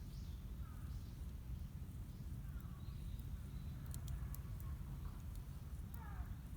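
Faint bird calls, short chirps that slide downward in pitch, over a steady low rumble, with a few sharp ticks about four seconds in.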